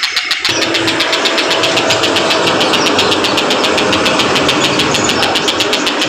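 Tengkek buto kingfisher calling in a fast, even rapid-fire series of high notes, about eight a second. A steady drone like a running engine joins underneath about half a second in.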